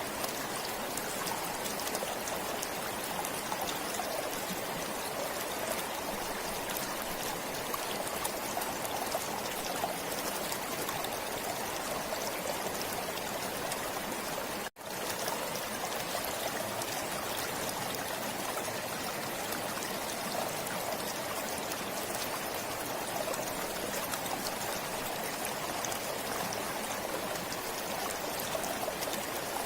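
A forest stream flowing and trickling steadily. The sound cuts out for a split second about halfway through.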